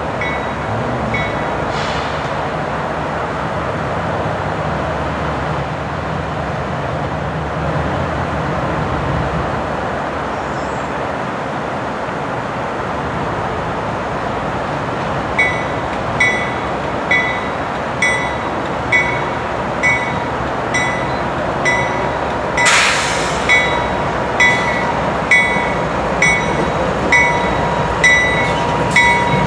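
CSX freight train's diesel locomotives rumbling past slowly. About halfway through, a ringing metallic ding starts and repeats about once a second. A short sharp hiss comes about two-thirds through, and a faint steady whine runs near the end.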